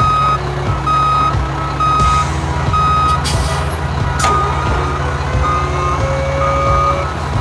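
Reversing alarm beeping about once a second over a heavy vehicle's steady low engine rumble: a construction vehicle backing up. A short hiss sounds about three seconds in.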